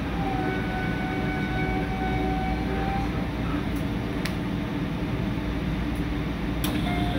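Steady low rumble and hum inside an electric commuter train stopped at a platform, with a few faint high tones and a couple of light clicks.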